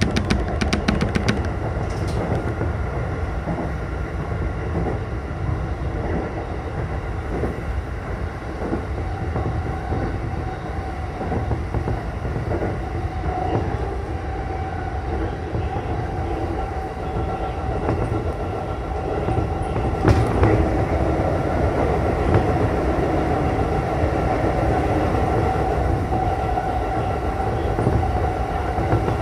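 Sotetsu commuter train running at speed, heard from inside the front cab: a steady rumble of wheels on rail with a quick run of clicks at the very start. A steady tone grows more prominent past the middle, and there is one sharp click about two-thirds of the way through.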